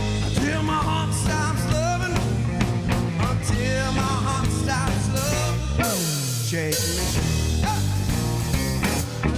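Live blues-rock band playing an instrumental stretch: an electric guitar lead with bent notes over bass guitar and drums. About six seconds in there is a long glide down in pitch.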